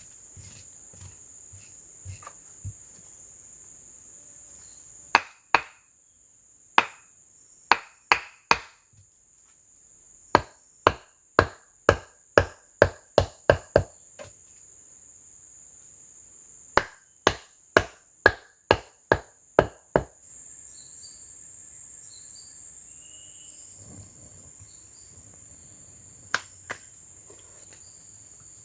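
Chopping blows of a tool striking wood, in three runs of six to nine sharp strikes at about two a second, with two more near the end. A steady high-pitched insect drone from crickets or cicadas runs underneath.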